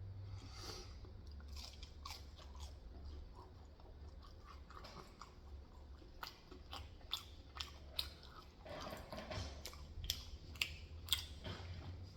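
Close-up chewing and biting: wet mouth sounds with sharp, crisp clicks that come thicker in the second half. A low steady hum runs underneath.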